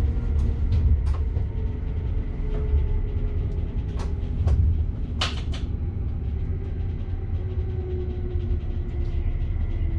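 Electric train running along the Bergen Line, heard from the driver's cab: a steady low rumble with a faint whine slowly dropping in pitch, and scattered sharp clicks and knocks, the loudest a quick cluster about halfway through.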